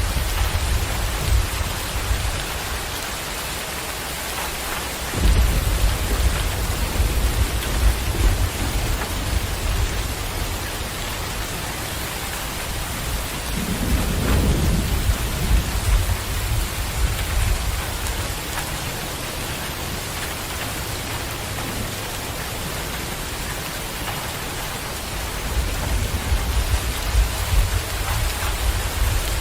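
Steady rain with rolling thunder. A rumble starts suddenly about five seconds in and lasts about five seconds, another swells about halfway through, and a third comes near the end.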